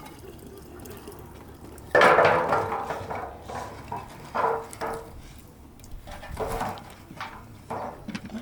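Metal cooking pots and dishes being handled: a sudden loud clatter about two seconds in, then several shorter knocks and scrapes, some with a brief metallic ring, along with splashing water.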